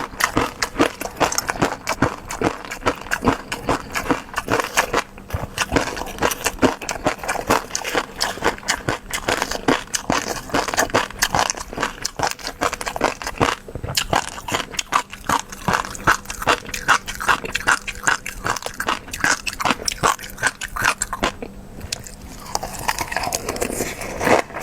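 Close-miked eating sounds: a fast, continuous run of wet clicks and smacks from chewing, with a brief pause a little past three-quarters through.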